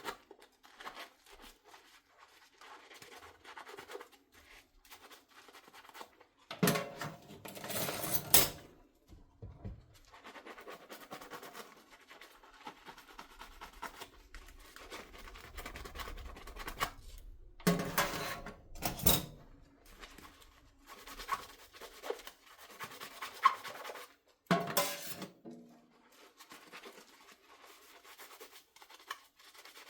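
Dishes being washed by hand at a sink: a sponge scrubbing and rubbing on dishes, with small clinks and knocks. Three louder, rushing spells break in, about seven seconds, eighteen seconds and twenty-five seconds in.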